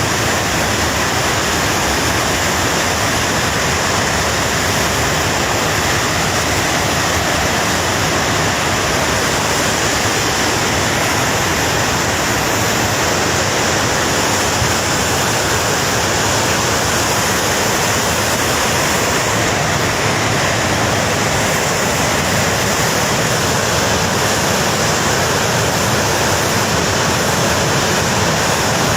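Loud, steady rush of fast-flowing floodwater from a breached dam.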